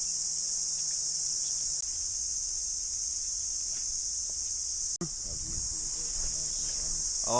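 Chorus of cicadas: a dense, steady, high-pitched buzz that drops out for an instant about five seconds in.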